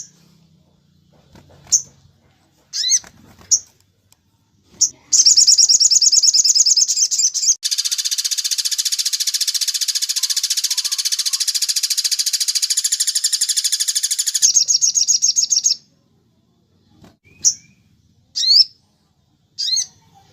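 Crimson sunbird (sogon) song: a few short, high chirps, then a loud, very rapid trill of about ten seconds from about five seconds in, then more single chirps near the end.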